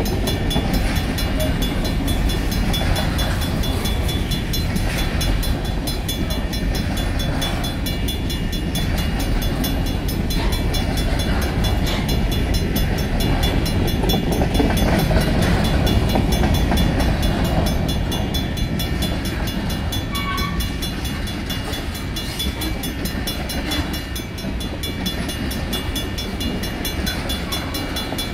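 Union Pacific freight train's covered hoppers and tank cars rolling past, a steady low rumble of steel wheels on rail.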